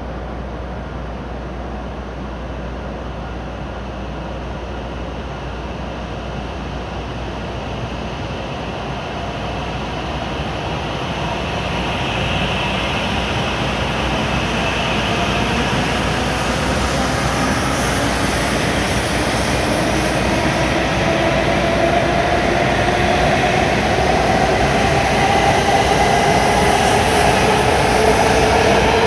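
W7 series Shinkansen pulling out of the station, its traction motors whining in a rising pitch as it accelerates, growing steadily louder over the rumble of the train.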